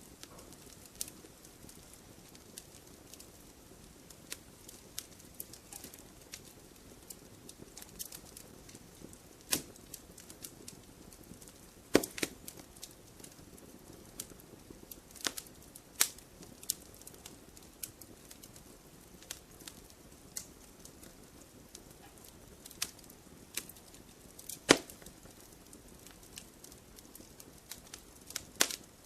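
Wood campfire burning, with a soft steady hiss and irregular crackles and sharp pops of burning wood. The loudest pops come about twelve seconds in and about four seconds before the end.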